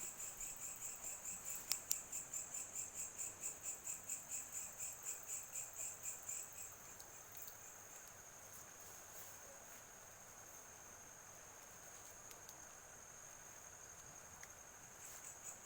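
Insects singing in the grass: a high pulsing buzz, about four pulses a second, that settles into a steady high drone about halfway through and starts pulsing again near the end. Two sharp clicks about two seconds in.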